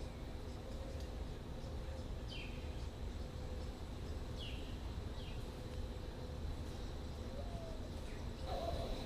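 Birds giving short falling chirps, about four scattered through, over a steady low rumble of surf and wind and a thin steady background tone.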